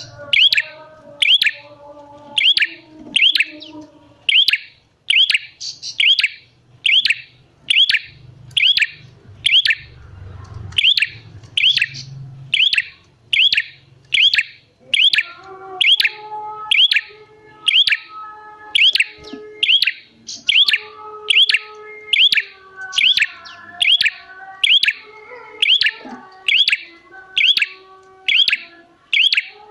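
Prenjak merah songbird in full song, giving a long, even run of sharp, high chirps at about one and a half a second. Softer, lower whistled notes run beneath.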